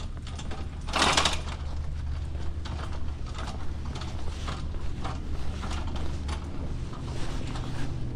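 Plastic 20-ounce soda bottles being handled and slid into place on shelving: a louder scraping rush about a second in, then scattered light clicks and knocks, over a steady low hum.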